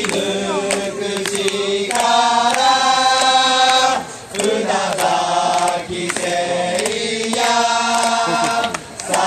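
Baseball cheering section singing a player's cheer song a cappella in unison: held sung phrases with brief breaks between them, over regular sharp claps.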